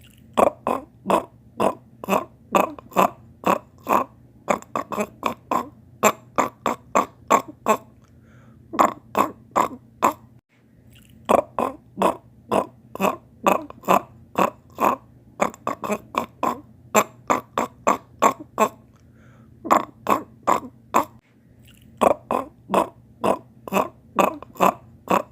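A person's voice imitating a wood frog's mating call: short, clucking gulps made by bursting air from the tongue against the uvula, about two to three a second, in runs with brief pauses between them.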